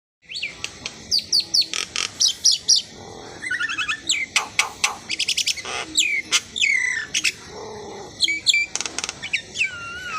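Asian pied starling (jalak suren) singing: a rapid, varied run of whistled notes and rising and falling slurs, mixed with sharp clicks and harsh buzzy chatter.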